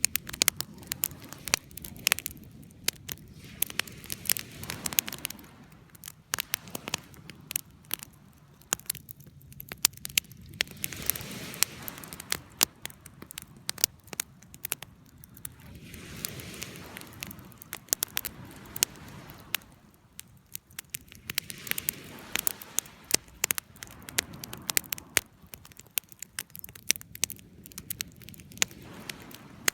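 Campfire crackling, with irregular sharp pops and snaps from burning wood over a soft hiss that swells and fades every few seconds.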